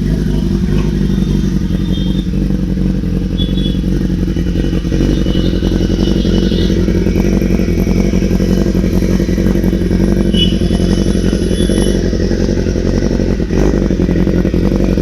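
Motorcycle engine running steadily at a low, even idle, with no revving.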